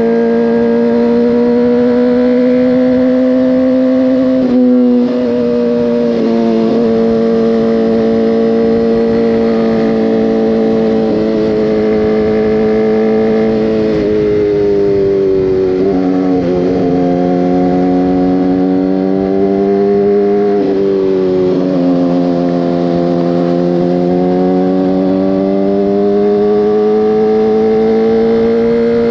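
Motorcycle engine running under way, its note slowly rising and falling with the throttle and dropping abruptly a few times, as at gear changes.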